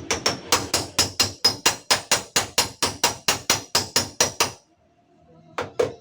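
Rapid, even hammer taps on a dented steel car-door panel, about four or five blows a second with a light metallic ring, as a dent is beaten out; the tapping stops for about a second near the end, then starts again.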